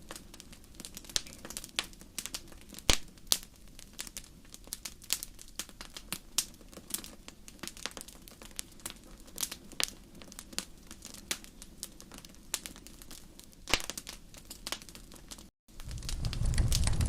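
Wood fire in a fireplace crackling with irregular pops; the sharpest pops come about 3 seconds in and near the end. Shortly before the end the sound cuts out for a moment, then returns louder, with a low rumble under the crackling.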